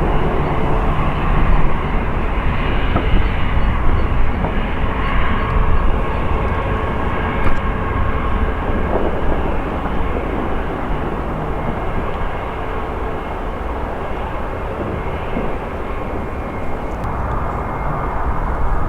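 Jet airliner engines rumbling loudly and steadily, slowly fading.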